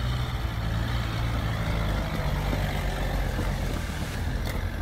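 Dacia Duster's engine running steadily as the SUV crawls over a rutted dirt track.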